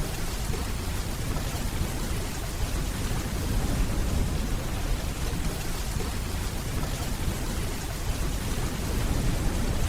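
Steady rainfall: a dense, even hiss over a constant low rumble.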